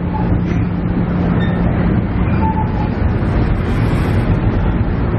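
Steady running sound of a JR KiHa E130 diesel railcar, heard from inside the car: low rumble of the diesel engine and wheels on the rails with a steady hum.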